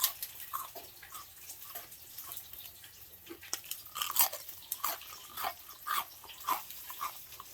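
Someone chewing a bite of extra-crispy panko-breaded fried chicken, the crust crunching in irregular crisp crackles that come thicker in the second half.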